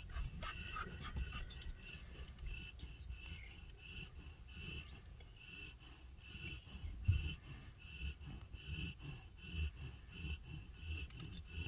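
Dog panting rhythmically, about two breaths a second.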